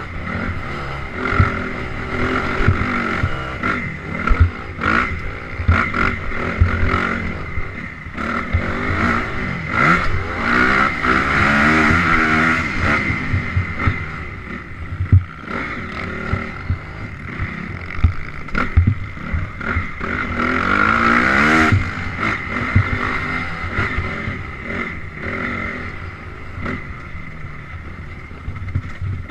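Honda CRF250R single-cylinder four-stroke motocross bike engine riding off-road, revs rising and falling with the throttle and building to two hard spells, about a third of the way in and again around two-thirds through. Short knocks and clatter run throughout.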